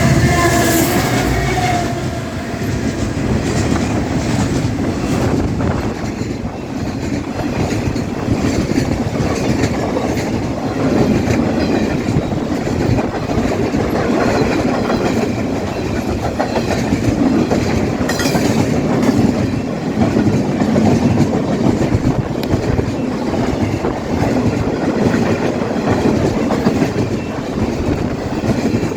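Freight train led by an SD70ACe locomotive passing close by at speed. The tail of its horn fades out in the first couple of seconds, then come the steady rumble and clatter of the wagons rolling over the rails.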